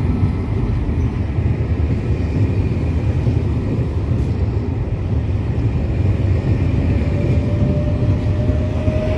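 Trenord double-deck electric passenger train running past on the nearest track: a loud, steady rumble of its wheels on the rails. From about six seconds in, a faint whine slowly rises in pitch and grows louder.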